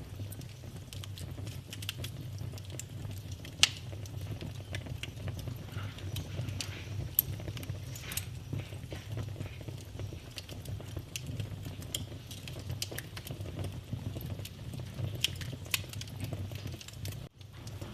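Wood fire in a fireplace crackling: irregular sharp pops and snaps over a steady low rumble, with a louder pop a few seconds in.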